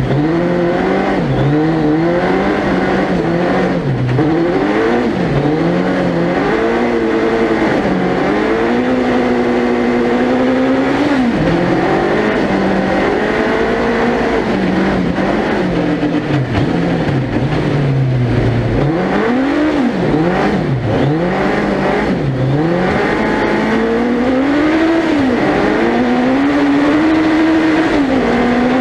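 Suzuki Hayabusa 1300cc four-cylinder motorcycle engine in a four-wheel-drive ice-racing prototype, heard onboard, revving up and dropping again and again through gear changes and corners. Near the end it holds a steadier, higher pitch as the car accelerates.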